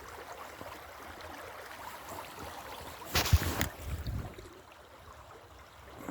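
Creek water running steadily, broken about three seconds in by a brief loud scuffing clatter with a couple of dull thumps.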